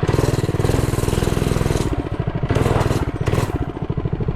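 Mini bike's small single-cylinder engine running while being ridden, a rapid even beat of firing pulses that swells and dips with the throttle. Short bursts of hiss come over it at the start and a couple of times near the end.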